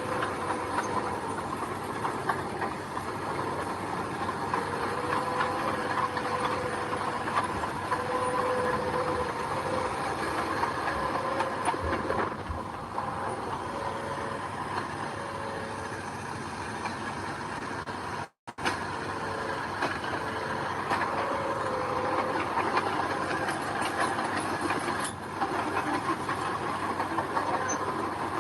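Mini bulldozer working gravel: its diesel engine runs steadily with a wavering whine and constant small rattling clicks. The sound cuts out for a moment about two-thirds of the way through.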